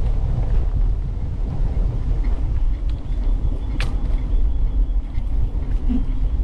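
Wind buffeting the microphone of a camera riding on a moving bicycle, heard as a steady low rumble mixed with tyre noise. A single sharp click comes about four seconds in.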